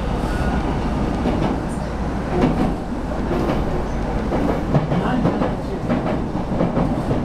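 Aichi Loop Railway 2000 series electric multiple unit running at speed, heard from inside the driver's cab: a steady rumble of wheels on rail with occasional light clicks.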